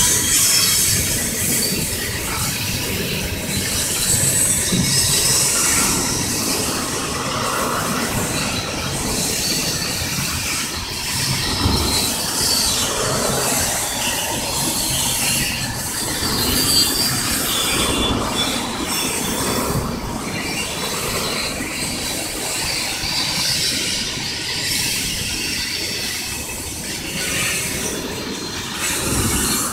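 Freight train of gondolas and boxcars rolling past, steel wheels squealing on the rails.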